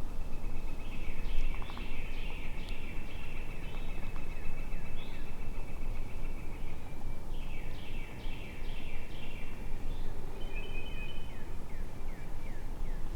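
Wind rumbling on the microphone, with a songbird singing two long phrases of quick, repeated down-slurred notes over a high trill.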